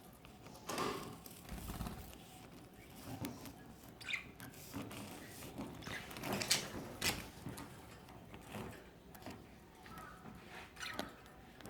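Budgerigars feeding: faint scattered pecking taps and leaf rustling, with a few short chirps.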